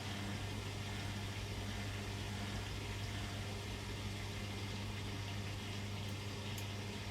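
Beko washing machine running mid-cycle: a steady hum with water rushing through it.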